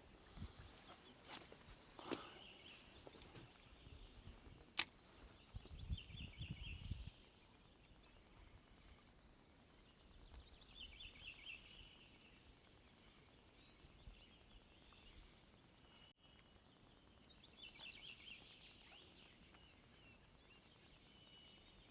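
A bird singing faintly in the distance, three short trilled phrases several seconds apart, over quiet outdoor background. A few sharp clicks and low knocking in the first seven seconds.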